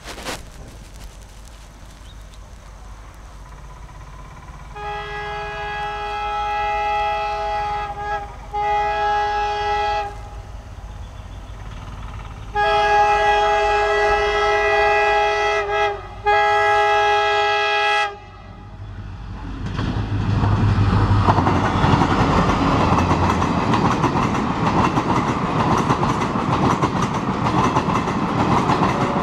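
Indian Railways diesel locomotive's multi-tone horn sounding as a level-crossing warning: two long blasts, a short pause, then two more. About twenty seconds in, the passenger train passes close by, with the loud, steady rush and clickety-clack of the coaches' wheels on the rails.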